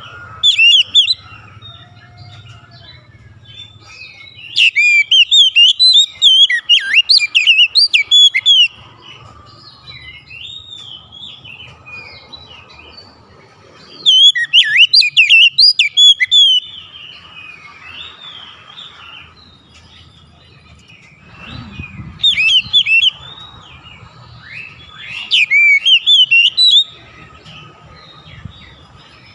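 Oriental magpie-robin (kacer) singing: loud bursts of rapid, varied whistled notes that rise and fall, alternating with quieter, softer phrases.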